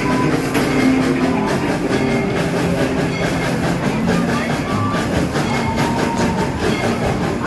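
Passenger train rolling along the track, a steady rumble and clatter of the cars, with short pitched notes at several pitches rising over it now and then.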